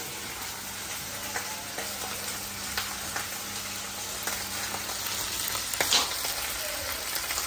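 Oil sizzling steadily in a kadai as curry leaves and seasonings fry over a gas burner, with a few light clicks and one sharper click about six seconds in.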